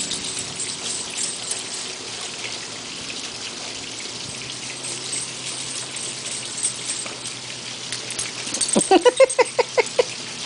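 Small garden waterfall running steadily into a pond, a constant splashing hiss. Near the end comes a quick run of short high-pitched sounds, about six a second for a second and a half.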